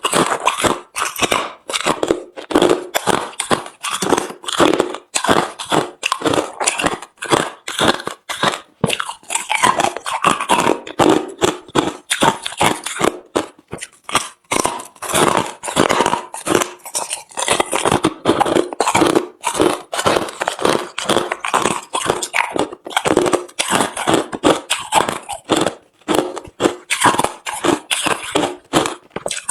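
Chewing of hard, refrozen crushed ice: a steady run of loud, crisp crunches, several a second, each bite breaking and grinding the frozen chunks.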